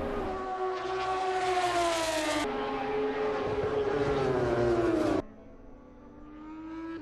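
MotoGP racing motorcycle engines at high revs, the pitch falling slowly in one shot after another, with abrupt cuts about two and a half and five seconds in. After the second cut the sound drops to a quieter engine whose pitch climbs near the end.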